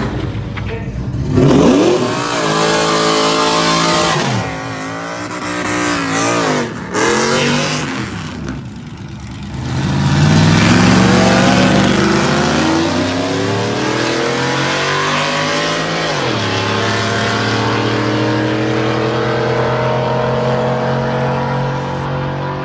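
Drag-racing vehicle engines revving and accelerating, their pitch climbing in several rising sweeps, then settling into a steady drone.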